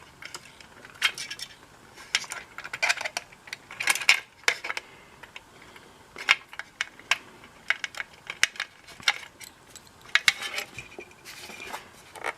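Irregular small metallic clicks and taps from a grommet being worked into a hole in a painted metal radio chassis, with parts and tools handled against the chassis.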